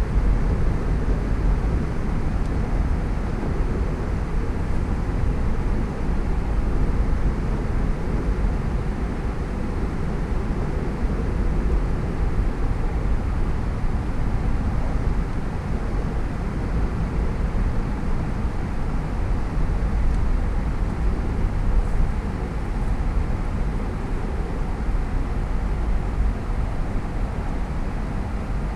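Steady road noise from a car driving along: a low rumble of tyres on pavement and engine.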